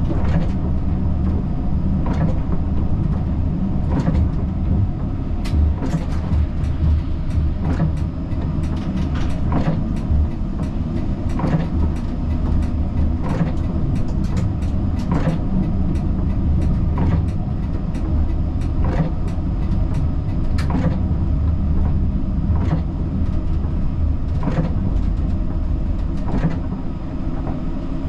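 Siemens Combino tram running, heard from the driver's cab: a steady low rumble of the drive and wheels on rail, with sharp clicks about every two seconds.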